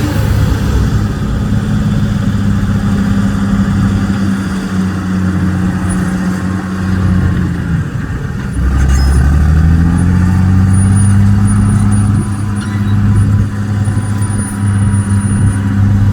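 Heavy dump truck's diesel engine running, its pitch dropping about eight seconds in and then climbing back up.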